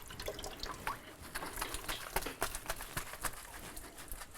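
Water dripping and splashing in irregular small ticks as dry old brick is dampened with a wet sponge, so that new mortar will not dry instantly and will bond.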